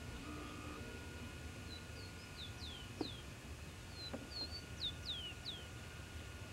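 A songbird singing: a phrase of a few short high chirps followed by three or four quick downslurred whistles, sung twice. A low steady rumble of wind on the microphone lies under it, with a couple of faint clicks.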